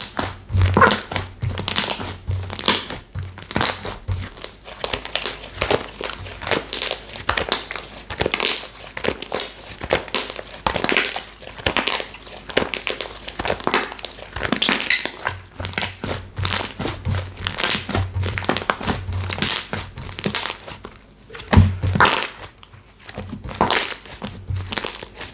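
Textured slime being squeezed, pressed and stretched by hand, giving a dense run of small crackles and clicks with soft low thumps as it is pressed and folded.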